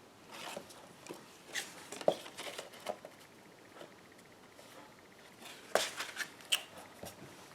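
Paper and twine handling: short rustles of cardstock and a few light taps and clicks, scattered and irregular, the sharpest about two seconds in and again near six seconds.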